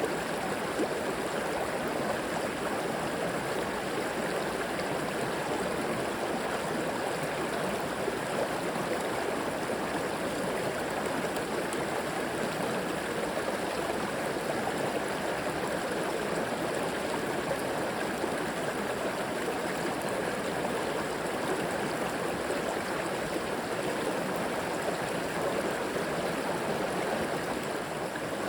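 River water flowing over rocks in a steady, even rush with gurgling, unchanging throughout.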